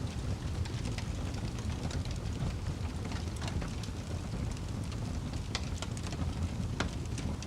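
Wood fire burning in a fireplace, with a steady low rumble of the flames and scattered sharp crackles and pops from the burning logs.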